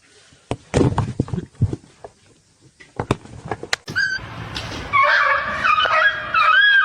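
A few knocks and thumps, then from about four seconds in a pet's loud, drawn-out vocal call that steps up and down between steady pitches.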